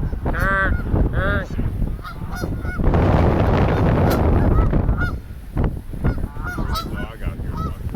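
A flock of geese honking: two loud honks near the start, then many shorter honks overlapping through the rest. Wind buffets the microphone throughout, with a strong gust about three seconds in.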